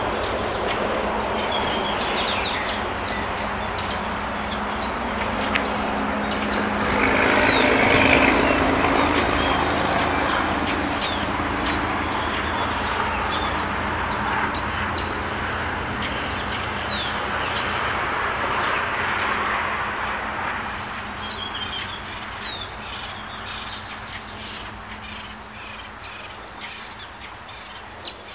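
Outdoor woodland ambience: birds chirping and a steady high insect drone over a broad rushing noise that swells about eight seconds in, rises again more softly later, and fades away toward the end.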